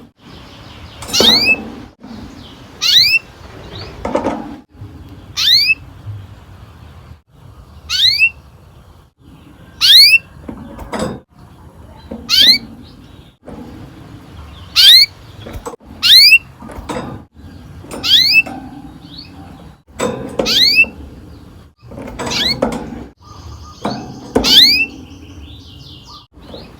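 Domestic canary giving loud, sharp calls, each a quick falling sweep, repeated about every one and a half to two seconds.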